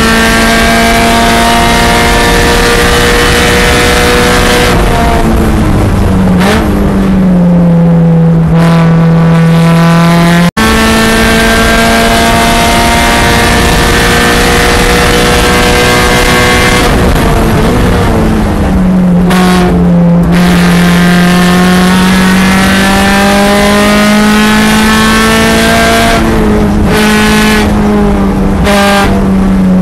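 2013 Subaru BRZ's 2.0-litre flat-four engine, heard from inside the cabin, running hard at high revs. Its note holds high, then falls as the car slows for corners, twice, with a slow climb between and another drop near the end. It breaks off for an instant about ten seconds in.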